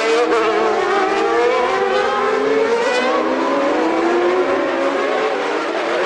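Several Formula One engines running at high revs together, their overlapping notes climbing and sliding in pitch as the cars accelerate.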